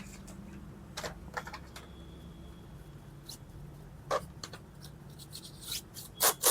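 Scattered light clicks and taps, as of small objects being handled, over a low steady hum; the loudest is a pair of sharp clicks near the end.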